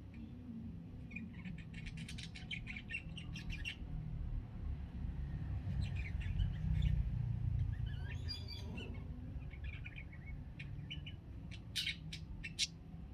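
Budgerigar chattering: runs of quick, high chirps and warbles in several bursts, with a few sharp single chirps near the end, over a steady low rumble.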